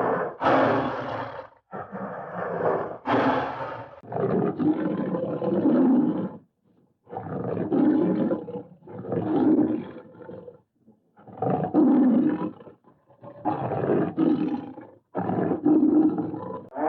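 A run of Hanna-Barbera cartoon animal roar sound effects, about ten separate roars one after another, each a second or two long with short gaps between.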